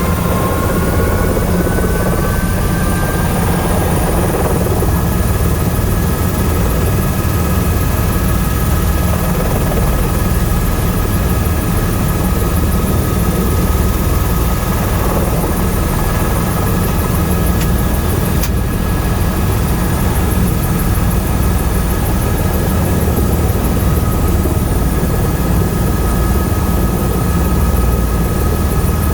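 Tour helicopter's rotor and turbine engine running steadily, a heavy low rumble with a whine on top that rises in pitch over the first few seconds and then holds steady.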